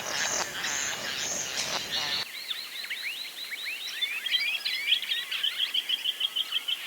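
Wild birds calling, in two recordings joined by a cut. First comes about two seconds of harsh, noisy buzzing calls. After the cut, several birds chirp, with a fast, even run of high piping notes at about six a second.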